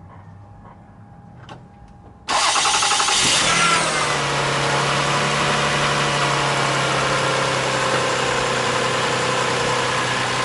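2001 Toyota Sienna's 3.0-litre V6 being started: about two seconds in, the starter cranks the engine for roughly a second, then it catches, flares up and settles into a steady idle. The starter is now spinning the engine normally, where the fault before was a no-crank.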